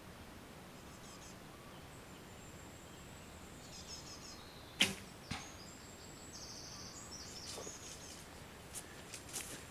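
A single bow shot: the sharp snap of the string's release about five seconds in, followed about half a second later by the thud of the arrow striking a foam 3D-archery target. Birds chirp faintly in the background.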